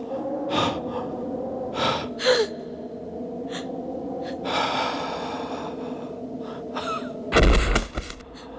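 Film action-scene soundtrack: gasps and heavy breathing over a held low drone, with several sharp hits and a loud, heavy impact near the end.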